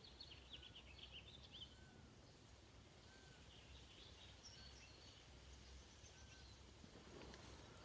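Near silence with faint birds chirping outside: a quick run of short high chirps in the first couple of seconds, then soft single notes every second or so and a few more chirps around the middle.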